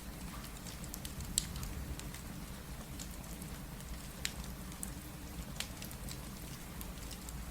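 Steady rain mixed with the scattered pops and crackles of a wood fire, over a low rumble. The sharpest pops come about a second and a half in, just past four seconds and about five and a half seconds in.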